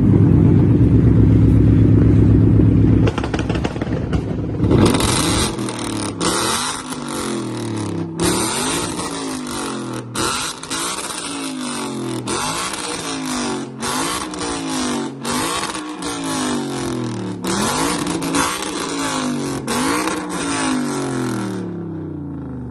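Car engine revving hard: held high and steady for about three seconds, then revs climbing and dropping again and again, about every second and a half, under a loud rushing noise.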